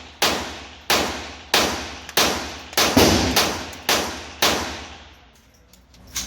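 A string of about eight gunshots at an indoor range, a little over one a second with two in quick succession near the middle, each followed by a long echoing tail. The firing stops with about a second and a half left, and a sharp knock comes right at the end.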